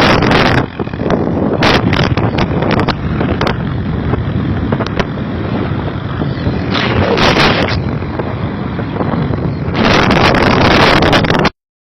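Loud wind buffeting on the microphone, surging and easing in gusts, that cuts off abruptly near the end.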